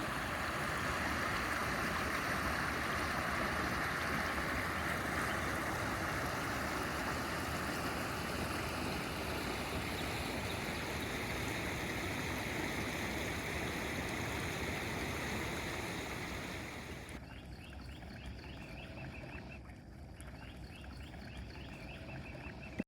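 Middle Bosque River water rushing over rapids, a steady rush that drops to a quieter flow for the last several seconds, with faint rapid ticks above it.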